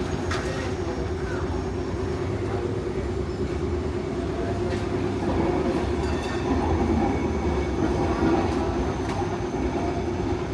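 Narrow-gauge electric tram-train running on its track: a steady rumble with a few sharp clicks, growing louder for a few seconds about halfway through.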